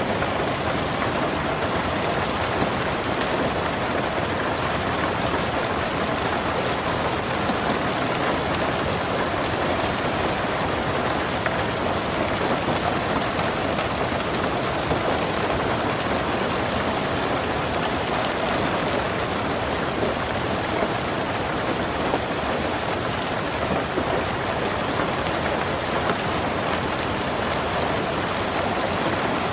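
Heavy rain falling steadily, a dense even hiss of drops hitting surfaces, with many small drop ticks.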